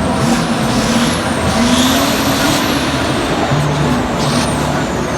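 A monster truck's motor running hard, with a thin high whine that rises and falls several times as the throttle changes, over a steady loud hiss.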